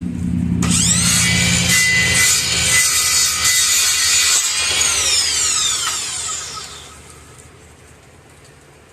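A power saw running and cutting wood, then winding down with a falling whine and going quiet after about seven seconds.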